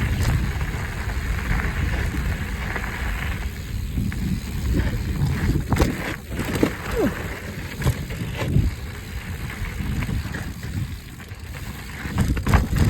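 Mountain bike riding along a dirt trail: wind rumbling on the microphone and tyre noise, with scattered knocks and rattles as the bike goes over bumps, and a short falling squeak about seven seconds in.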